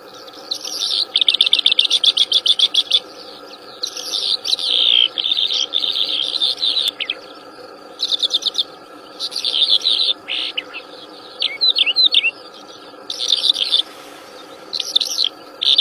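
Wild songbird singing in repeated bursts of rapid, high chirps and trills with short pauses between phrases, over a steady background hum.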